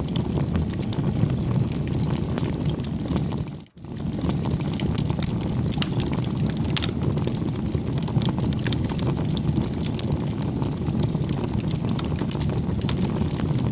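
Wood campfire burning, a steady low rush of flames with frequent small crackles and pops, broken by a moment's gap about four seconds in.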